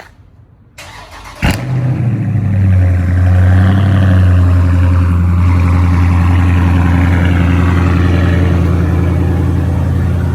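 Dodge Charger Scat Pack's 392 Hemi V8 (6.4-litre) being started: a brief crank, a sharp catch about a second and a half in, a loud flare of revs, then a steady loud idle.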